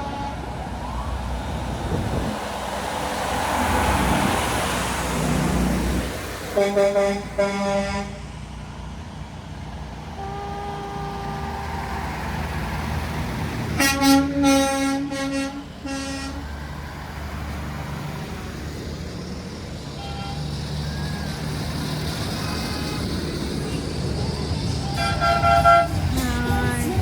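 Big trucks rumbling past and sounding their horns in clusters of short blasts, about a quarter, half and all of the way through, with one longer single honk between.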